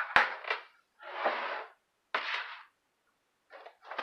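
Kitchen handling sounds: a sharp knock at the very start, then two short bursts of rustling noise about a second apart.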